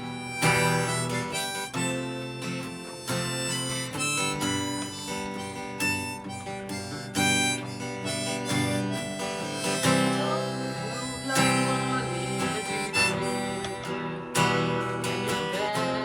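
Harmonica playing held, changing notes over a strummed acoustic guitar.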